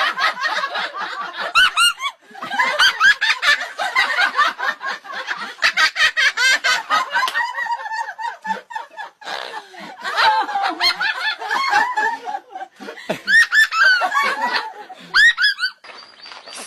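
Parrot imitating human laughter: a long run of high-pitched laughs, with brief pauses about two seconds in and near the end.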